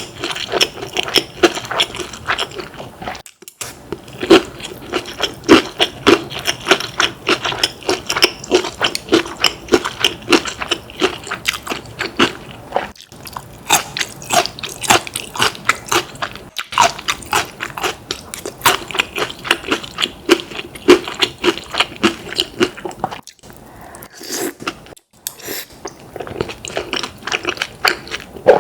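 Chewing of crispy fried chicken: rapid crackling crunches, loud and dense, with brief pauses between bites.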